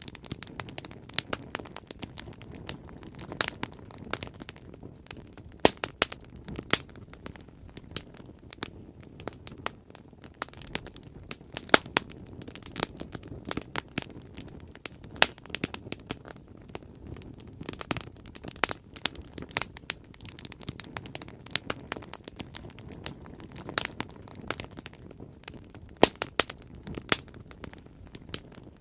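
Bonfire crackling: irregular sharp pops and snaps over a low steady rumble of burning.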